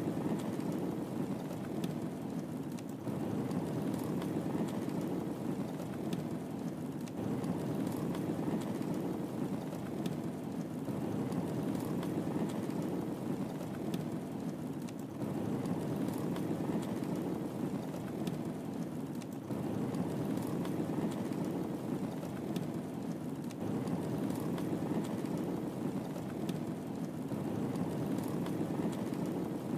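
Wood fire burning in a fireplace: a steady low rumble of flame with scattered small crackles and pops.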